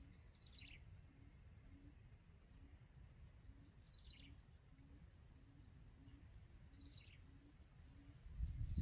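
Decoy quail giving faint short calls that fall in pitch, one about every three seconds, four in all. A low rumble swells near the end.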